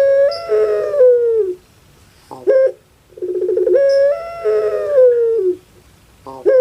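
Puter pelung, a long-voiced Barbary dove (Streptopelia risoria), cooing: each call is a short note followed by a long drawn-out coo that starts with a rolling burr, rises, holds, and falls away at the end. The calls come again about every three and a half seconds.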